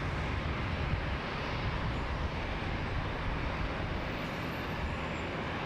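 Steady, deep rumble of jet aircraft engine noise at an airport.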